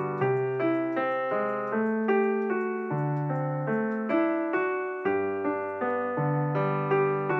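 Background piano music: a gentle melody of notes struck about twice a second, each one fading, over lower bass notes.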